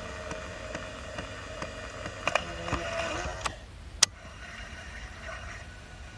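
Small clicks and handling sounds from a vintage Sanyo Micro-Pack 35 tape recorder under repair, over a faint steady hum that stops about three and a half seconds in. A single sharp click follows about four seconds in.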